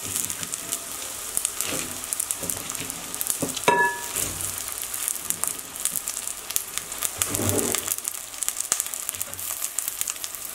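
Cut okra sizzling in hot oil with fried onions in a stainless steel pot, a steady crackle throughout. About four seconds in comes a single sharp metallic clink that rings briefly.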